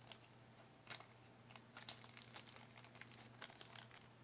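Faint crinkling of small plastic packaging being handled, with scattered light clicks, over a faint steady low hum.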